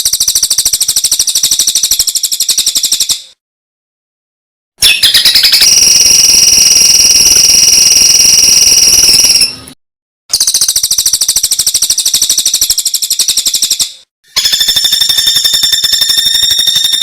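Recorded songbird song of the kind used as training 'isian' for caged birds: loud, very high, rapid buzzing trills in four bursts of about three to five seconds, cut apart by clean silent gaps. Some bursts carry steady piercing notes held within the trill.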